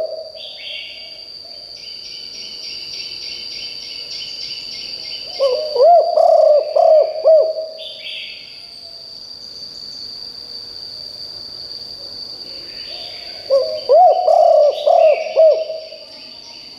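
Spotted dove cooing: a phrase of several low, rising-and-falling coos, given twice about eight seconds apart, with the end of another phrase at the very start. Other birds chirp higher up in between, over a steady high-pitched insect drone.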